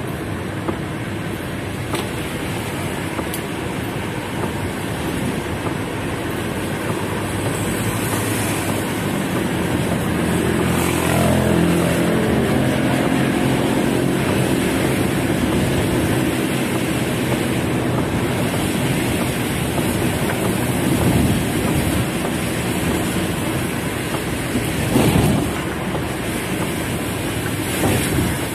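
Heavy rain drumming steadily on a car's roof and windows, heard from inside the cabin. About ten seconds in, a deeper pitched sound slides down in pitch over a couple of seconds, and there are two brief louder bursts near the end.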